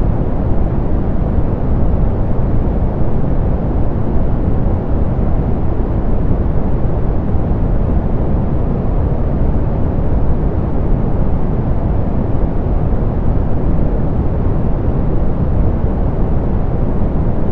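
Steady, loud pink noise, generated and softened so that it is strongest in the lows and dull in the highs, with no change or event.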